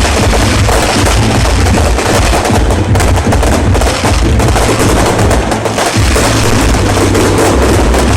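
A fireworks barrage: a dense, continuous stream of rapid bangs and crackling over a deep rumble, very loud with no gaps.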